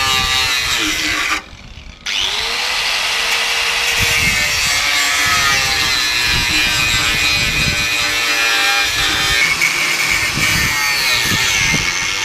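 A power tool sawing or grinding, with a shrill, wavering squeal over the cutting noise. It cuts out for about half a second near the start, then carries on.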